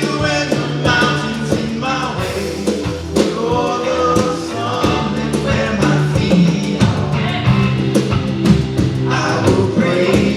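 Live worship band playing a rock-style song with singing over guitars, bass and drums.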